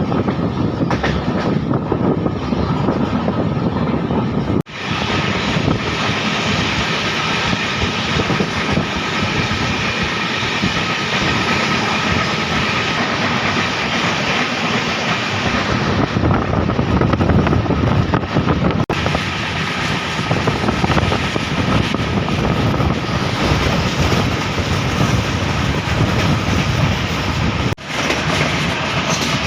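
Antyodaya Express passenger train running at speed, heard from on board: a steady rush of wheels on the rails and passing air. The noise drops out sharply for a moment twice, about five seconds in and near the end.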